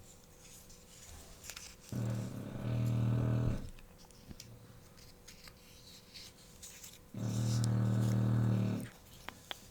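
A sleeping puppy snoring: two low snores about five seconds apart, each lasting a second and a half or so.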